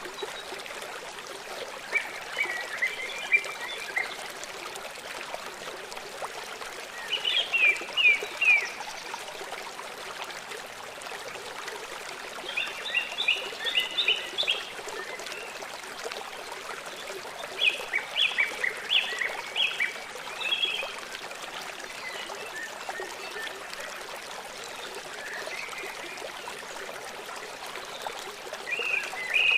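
Small songbirds singing in short chirping phrases every few seconds, over a steady rush of running water.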